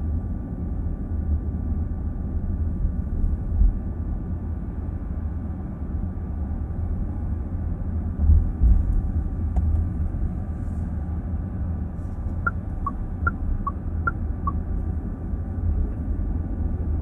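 Steady low road and tyre rumble of a moving car, heard inside the cabin. About twelve seconds in, six short beeps alternating between two pitches sound over it.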